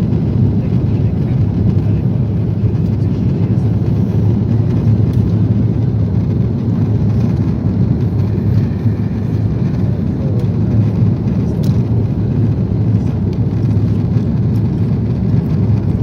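Steady low rumble of cabin noise inside a four-engined Airbus A340 airliner in flight: the engines and airflow heard from a passenger seat.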